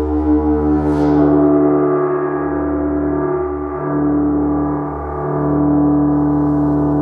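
Gong ringing with a dense, sustained wash of overlapping tones that beat slowly in the low notes. It is struck again about a second in, which brings a brief bright shimmer before the sound settles back into the long ring.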